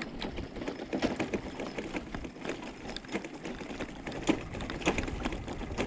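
Bicycle rattling as it rolls over cobblestones: a rapid, irregular run of clicks and knocks.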